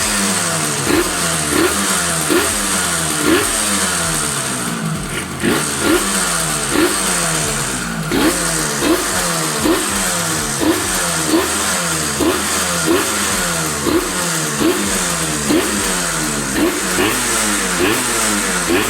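Motorcycle engine revved in quick, regular throttle blips, about one every three-quarters of a second. Each time the pitch jumps up and falls straight back toward idle.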